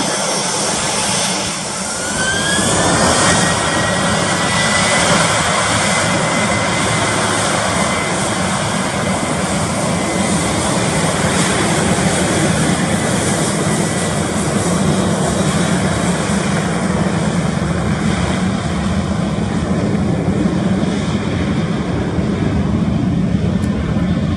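Jet airliner's engines at takeoff power: a loud, steady rush with a whine that rises in pitch about two seconds in and then holds steady.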